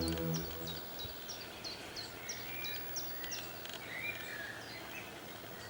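A small bird calling in a quick series of short high chirps, about three a second, which stop after about three and a half seconds, with a softer warbling call in the middle of the series.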